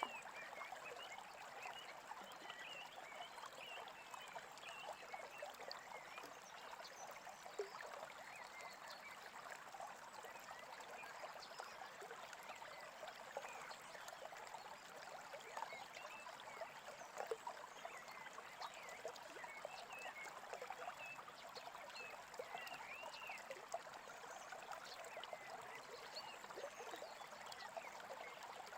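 Faint, steady babbling of a small creek, with small birds chirping now and then over it.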